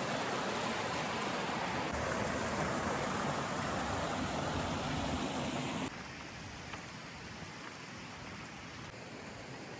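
Steady rushing of flowing mountain water. It drops suddenly to a quieter level about six seconds in.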